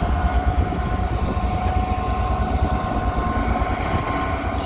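Freight train hauled by a Class 66 diesel locomotive rolling past: a steady, heavy low rumble from the engine and wagons, with several steady high-pitched tones ringing over it.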